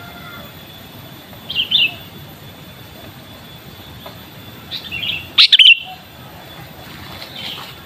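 Sooty-headed bulbul (kutilang) giving short, bright chirping calls, a few seconds apart, the loudest about five and a half seconds in.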